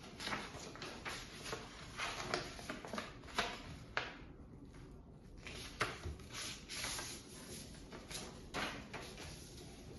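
Construction paper being folded and creased by hand: short, irregular rustles and light taps, with a quieter pause a little before the middle.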